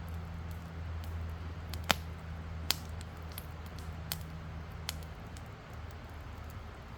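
Wood campfire crackling, with irregular sharp pops, the loudest two about two and almost three seconds in. Under it a low steady hum fades out about five seconds in.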